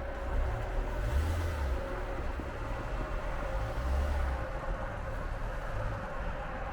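Car engine idling while it warms up after a cold start in deep frost, a steady low running sound that swells slightly twice.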